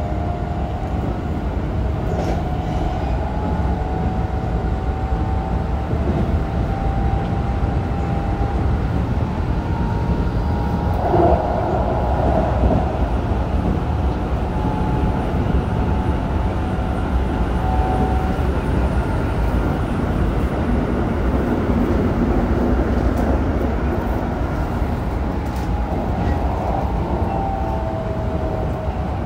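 Keikyu 1000 series train running: a steady rumble of wheels on rails under the faint whine of its Toshiba IGBT-VVVF traction inverter and motors, briefly louder about eleven seconds in.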